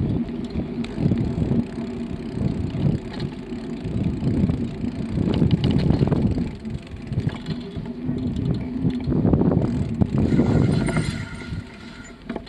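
Bicycle riding noise: wind rushing over the microphone and tyres rolling on the path, a steady rough rumble that drops away near the end.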